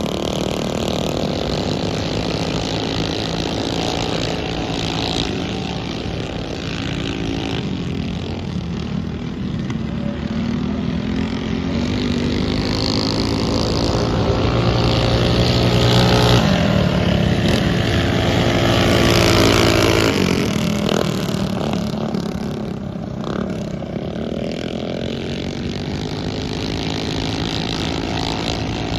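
Several mini bike engines racing around a dirt flat track, their pitch rising and falling as the riders throttle on and off. The engines swell loudest about halfway through, as bikes pass close, then ease off again.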